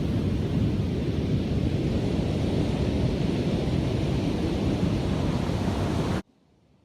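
Wind rumbling on the microphone over the steady wash of ocean surf. It cuts off suddenly about six seconds in.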